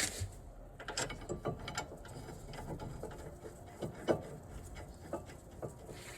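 A hand ratchet clicking in short runs as bolts are wound, with knocks of metal tools; the loudest knock comes about four seconds in.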